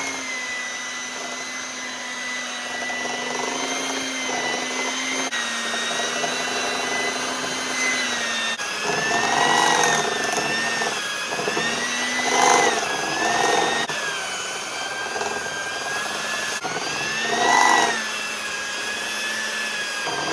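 Electric hand mixer running with its beaters in thick cookie dough as flour is mixed in. Its steady motor whine dips in pitch and swells about three times as the beaters work through the dough.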